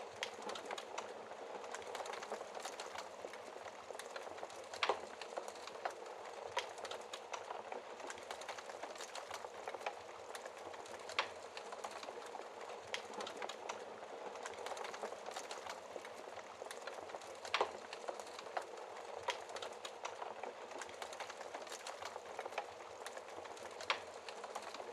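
Wood fire crackling with many small snaps over a steady hiss of rain, with a few louder pops spaced several seconds apart.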